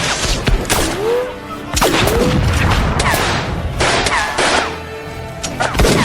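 Battle gunfire: repeated rifle shots and volleys crackling one after another, with a heavier boom or two, over a bed of music.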